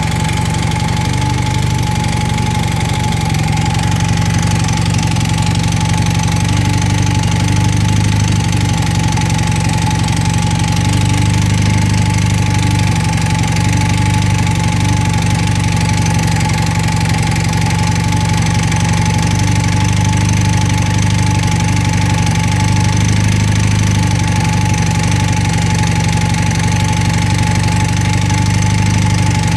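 1980 Honda CM400T motorcycle's air-cooled 395 cc parallel-twin engine idling steadily, with a steady whine above the engine note.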